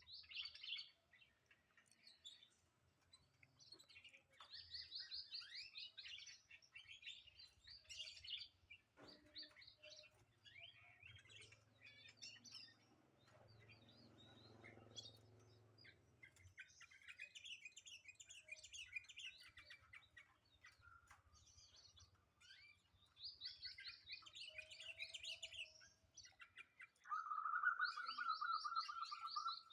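Pet pleci (white-eye) singing: repeated bursts of fast, high twittering song, with a louder, lower trill near the end.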